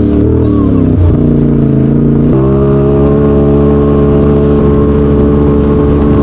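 Off-road vehicle engine running loud and close. Its speed changes about a second in and again just after two seconds, then holds steady.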